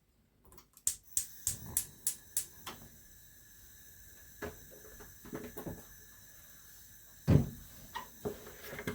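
Kitchen handling sounds: a quick run of sharp clicks and knocks, then scattered lighter taps, with one louder thump about seven seconds in.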